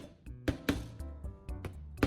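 Background music with a few sharp knocks of a steel hammer striking nails into wood.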